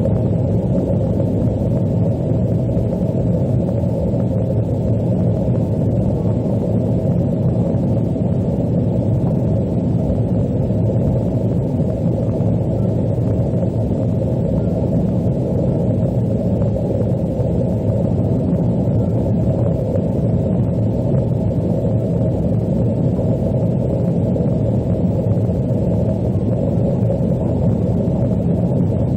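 Steady low rumble of an Airbus A330-200 airliner heard from inside the passenger cabin, the engine and airframe noise holding even without any change.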